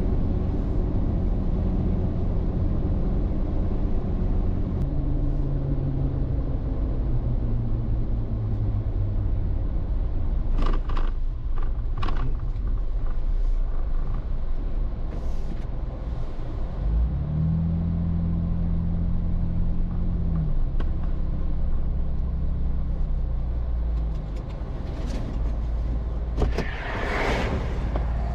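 Recovery truck driving on the freeway: a steady engine drone with road noise, its pitch shifting in steps as the engine speed changes, and a louder hum for a few seconds midway.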